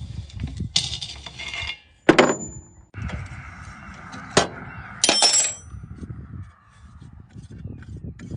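Metal tools and parts clinking and knocking during hands-on repair work, with a scrape about a second in and a few sharp metallic hits, the last one ringing briefly.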